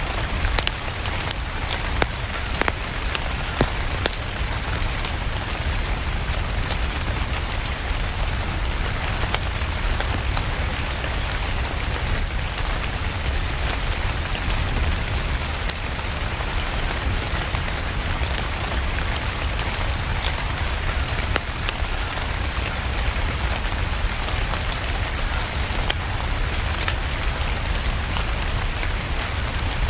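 Steady rain, an even hiss with a low rumble underneath, mixed with the scattered sharp pops and crackles of a burning wood fire in a fireplace.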